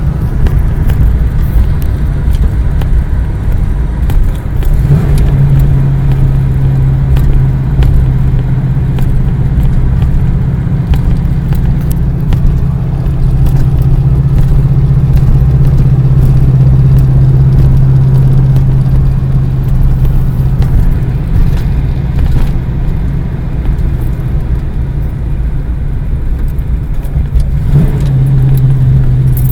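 A car running steadily, heard as a continuous low rumble with a steady low engine drone that comes in about five seconds in, fades out later and returns near the end.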